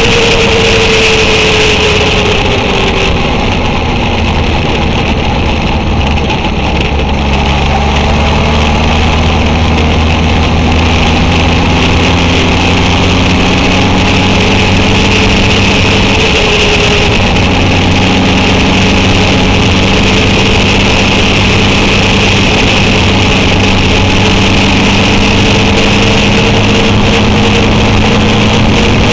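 Honda CB750's inline-four engine running under way. Its pitch eases down in the first few seconds, then climbs slowly, with a brief dip about two-thirds of the way through. Wind noise on the microphone runs under it.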